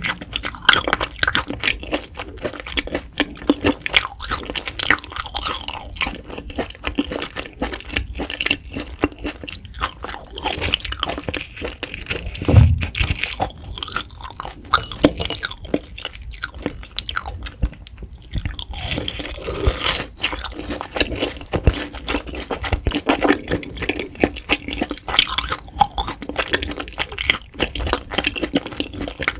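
Close-miked chewing and crunching of grilled beef intestines: a steady run of small crunches and mouth clicks, with one loud low thump about twelve and a half seconds in.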